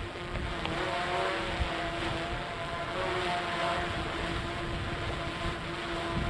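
Tugboat diesel engine droning across the water: a steady low rumble with a held hum whose pitch wavers slightly a couple of times. Wind noise on the microphone runs under it.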